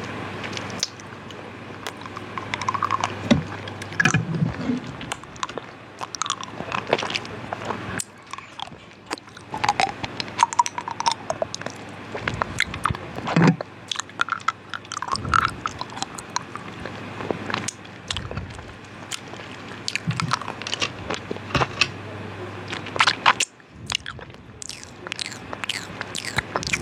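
ASMR mouth sounds close to the microphone: a dense, irregular run of short clicks and mouth noises.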